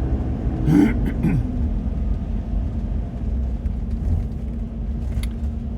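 Vehicle engine and road rumble heard from inside the cab while pulling away, with a steady low hum. A short wordless vocal sound comes about a second in, and a single click near the end.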